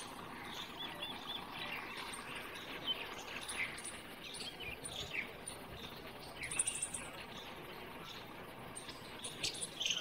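Outdoor ambience of birds chirping intermittently, short scattered calls and a quick trill about two-thirds of the way through, over a faint steady background hiss.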